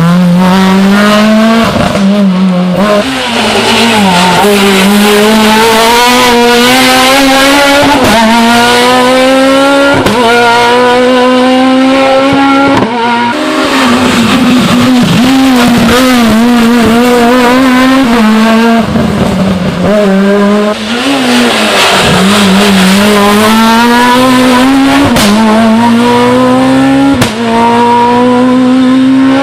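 Rally car engines revving hard at full throttle, the note climbing through each gear and dropping sharply at every upshift or lift, with tyre squeal in places. It breaks off abruptly several times as one car gives way to the next.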